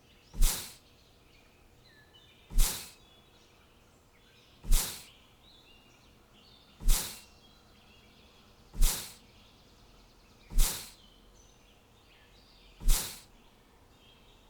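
A short whooshing swish sound effect repeats about every two seconds, seven times, each starting suddenly and fading quickly. Faint bird chirps run underneath.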